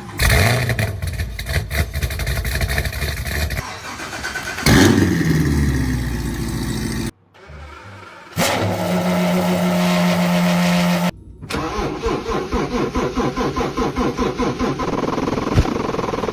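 A series of car engine cold starts, one after another: a starter cranking rapidly until the engine catches with a loud rev flare that falls away, then a second engine held at a high, steady rev, then a third engine running with a lumpy, rhythmic pulse.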